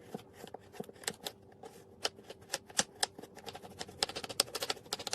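Rapid, irregular sharp clicks and taps of uneven loudness over a faint steady hum, cutting off abruptly near the end.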